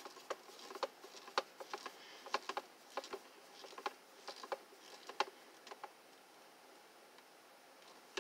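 Screwdriver turning a screw into a plastic heater housing: faint, irregular small clicks and ticks, a couple a second, that die away about six seconds in.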